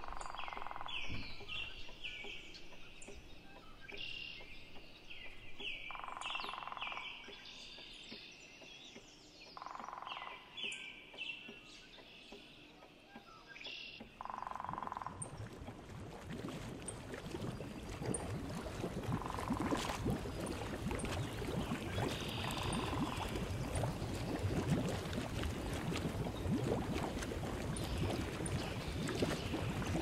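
Small birds chirping in short repeated phrases, with a lower call of about a second every few seconds. About halfway through, a dense crackling, rushing noise comes up underneath and continues, with faint chirps still over it.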